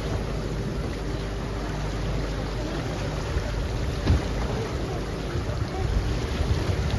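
Tour boat's engine running steadily, with wind on the microphone and water noise, and a single thump about four seconds in.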